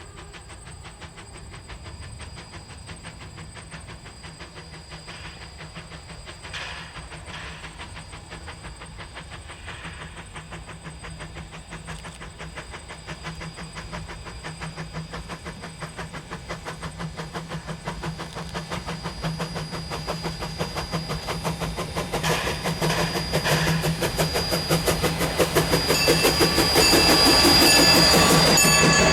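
K 88, a Rogers-built 1870s steam locomotive, approaching. Its rapid, regular beats grow steadily louder and are loudest near the end as it draws close.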